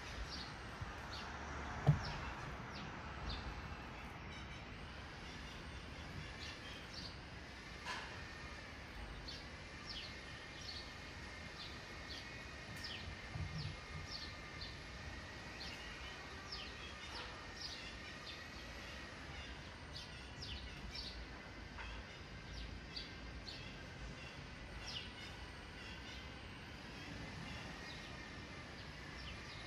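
Outdoor ambience of steady background noise with many short bird chirps scattered throughout, and one sharp knock about two seconds in.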